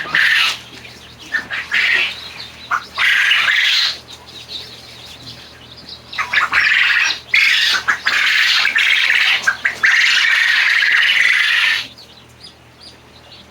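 A crowd of newly hatched chicken chicks peeping loudly all at once, in stretches that come and go, with the longest lasting about four seconds just past the middle.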